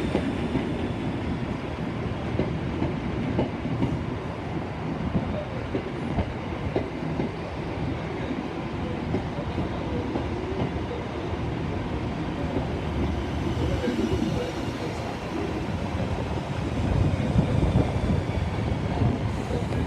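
Class 317 electric multiple unit moving through the station, with its wheels clicking over the rail joints, under heavy wind buffeting on the microphone.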